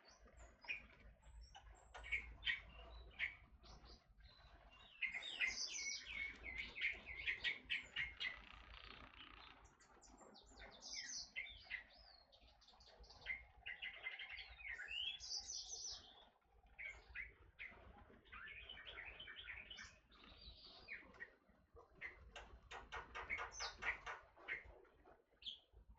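Forest oriole (kepodang hutan) calls: rapid chirps and short whistled notes in repeated busy bursts, with brief pauses between them.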